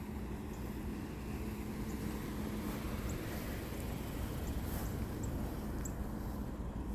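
Outdoor background: a steady low rumble of traffic with a faint constant hum, and a few faint, scattered high ticks.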